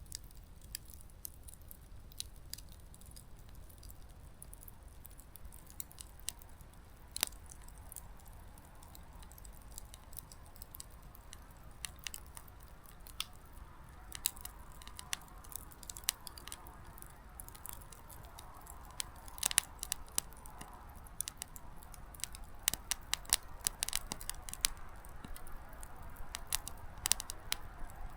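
Small wood campfire crackling: sparse sharp pops from the burning firewood at first, growing much more frequent in the second half as a soft rush of flame builds, the fire picking back up after nearly dying down.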